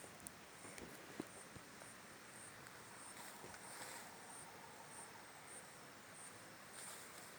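Faint forest ambience with an insect chirping in short, high, evenly spaced pulses about twice a second.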